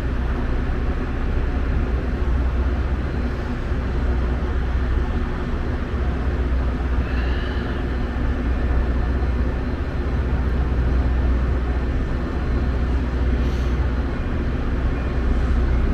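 Metra commuter train's diesel locomotive running steadily with a low, even drone. A brief high tone sounds about seven seconds in.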